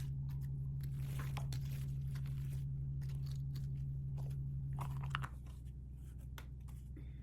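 Plastic toy packaging being handled and opened: crinkling, crunching and clicking in irregular bursts, heaviest in the first half and again near five seconds. A steady low hum sits beneath it and cuts off about five seconds in.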